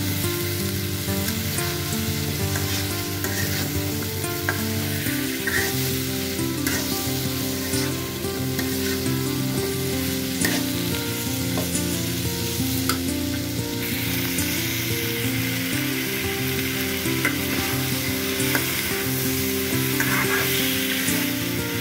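Pumpkin cubes frying in onion masala in a metal kadai, sizzling steadily while a metal spatula stirs them, scraping against the pan now and then.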